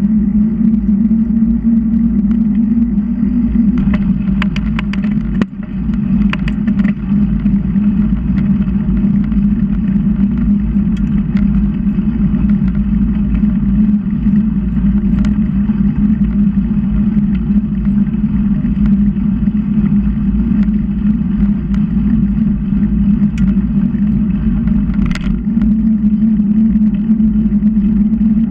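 Steady rumble of bicycle riding noise, wind and road noise on the microphone with a constant low hum. A few light clicks and rattles come about four to seven seconds in, and one more near the end.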